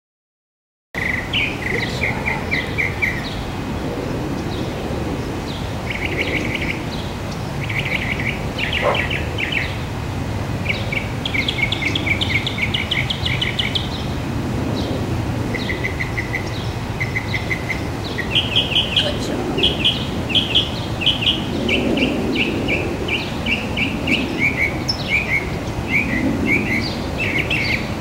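Songbirds singing, starting about a second in: quick runs of short high chirps repeat throughout, often overlapping, over a steady low background hum.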